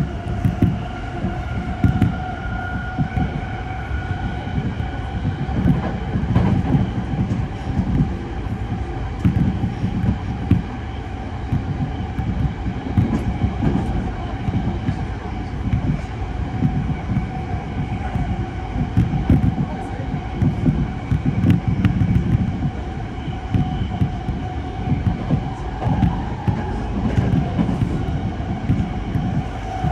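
Tōzai Line rapid commuter train running at speed, heard from inside the car: a steady rumble of wheels on rail with a constant high whine over it.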